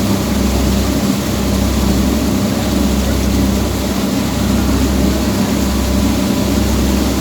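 Boat's engine running steadily: a constant low drone under an even rush of noise.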